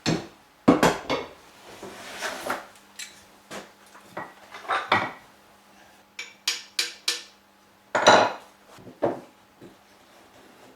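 A Stanley No. 10 rebate plane taking short, irregular shaving strokes in a wood corner, cleaning out leftover material. About six seconds in there is a quick run of light clicks.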